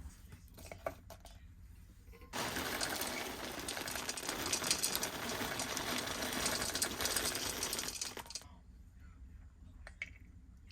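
A small electric motor runs with a rapid whirring rattle for about six seconds, starting about two seconds in and cutting off near the end, with small clicks and knocks around it.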